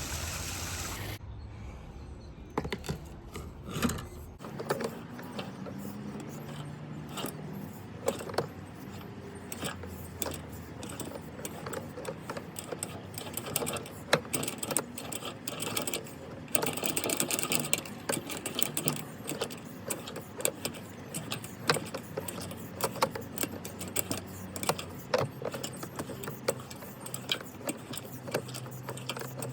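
A drain-cleaning cable machine running, its motor humming steadily while the spinning cable clatters and rattles, as it works to clear a blocked sewer main.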